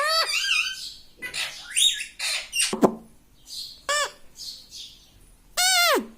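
Pet parrot calling: a quick run of gliding whistles and harsh squawks, then one longer arched whistle that falls away near the end.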